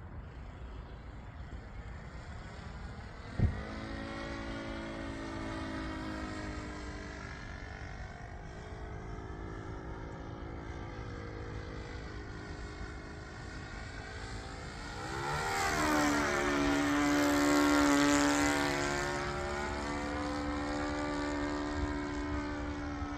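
Engine and propeller of a radio-controlled Pitts Special model biplane droning in flight. It grows louder about fifteen seconds in, as the plane passes close, with the pitch sweeping up and then down before it settles. There is a single sharp knock about three and a half seconds in.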